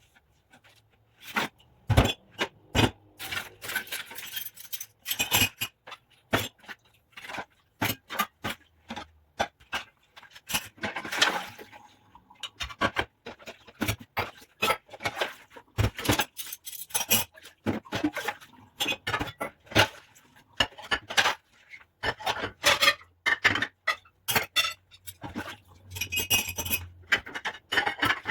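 Dishes, cutlery and glassware clinking and knocking together as they are washed by hand, in irregular sharp clinks with a brief stretch of hissing around the middle.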